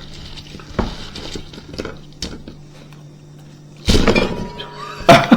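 Scattered knocks and clinks of tableware being handled, with a louder clatter about four seconds in and another near the end, over a steady low hum.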